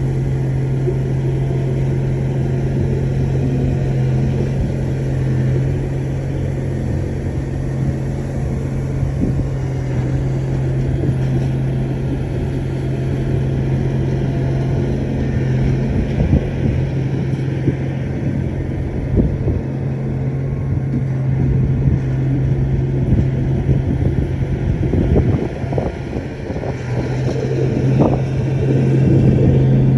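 Heavy diesel engine of a bulldozer running steadily under load, with scattered clanks and knocks in the second half.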